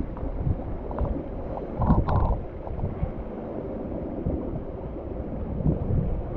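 River water sloshing and rumbling close to the microphone, with a couple of brief louder splashes about one and two seconds in.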